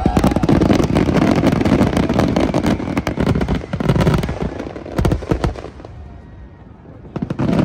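Fireworks going off in a rapid barrage: a dense crackle of many bangs for about four seconds, a few separate bangs about five seconds in, then another quick flurry near the end.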